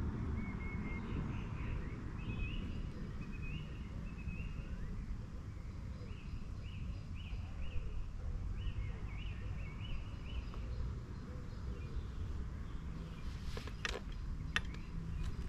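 A small bird singing a run of short repeated chirps over a steady low rumble, with a few sharp clicks near the end.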